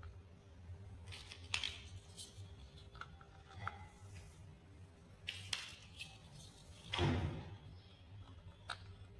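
Plastic building blocks being handled and pressed together: scattered light clicks with a little rustle between them.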